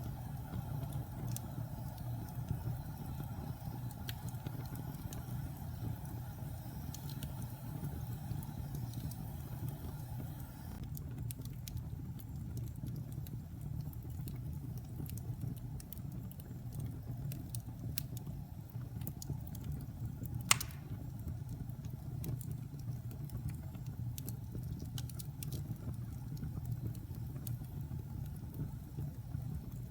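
Wood fire burning in a fireplace: a steady low rumble of flames with scattered small crackles and one loud sharp pop about two-thirds of the way through.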